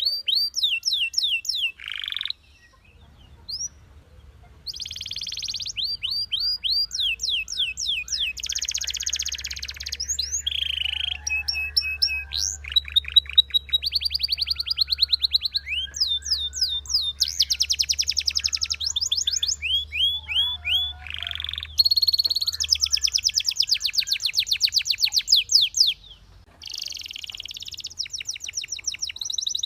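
Belgian canary singing a long song of fast trills: rapid runs of repeated whistled notes that switch to new speeds and pitches every second or two, with two short pauses.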